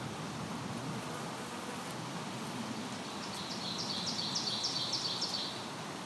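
A bird calls a quick series of about eight high, short notes, roughly four a second, starting about halfway through. Under it is a steady hiss of forest ambience with insects.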